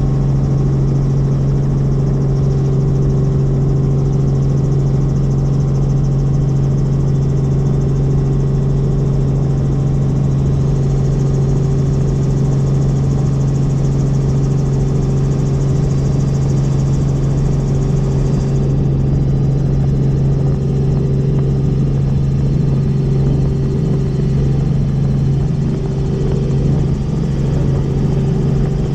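Helicopter in flight: steady, loud rotor and engine noise with a strong even low hum.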